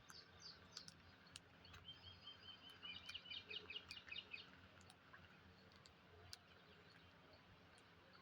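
Parrot giving a faint, quick run of repeated high chirps about two seconds in, lasting about two seconds, with scattered soft clicks around it.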